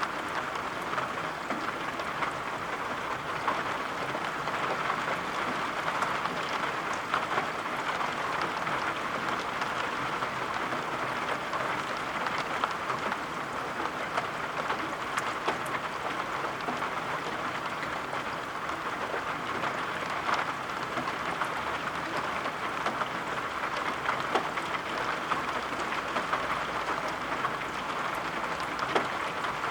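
Steady rain, an even hiss with scattered small sharp ticks of drops.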